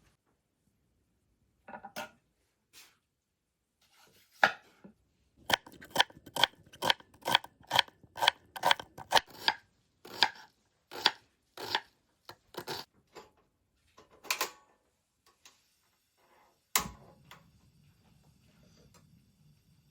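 Knife chopping on a cutting board: a run of quick, evenly spaced strokes, about two to three a second, with a few scattered strokes before and after. Near the end comes a single sharp knock, then a faint low hum.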